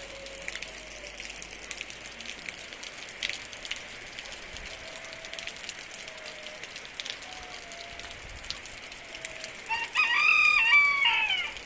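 A rooster crows once near the end, a loud stepped call lasting about a second and a half, over a faint steady hiss with scattered light ticks.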